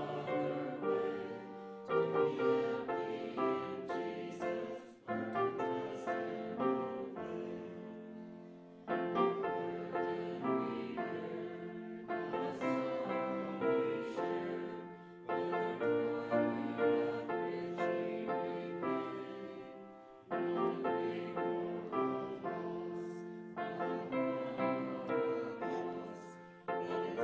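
Congregation singing a hymn with piano accompaniment, in slow phrases of sustained chords.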